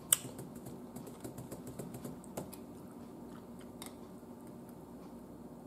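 A person chewing food with the mouth closed: faint, scattered small clicks, with one sharper click just after the start.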